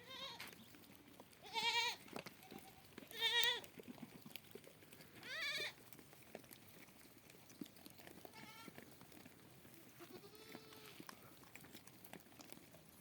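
Goats and sheep bleating: three loud, wavering bleats in the first six seconds, then a few fainter calls.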